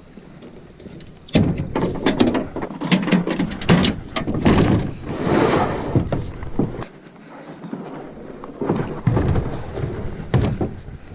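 A plastic kayak being unstrapped and handled: irregular scraping, knocks and thumps in two bouts, the first about five seconds long, a quieter gap, then a second shorter bout near the end.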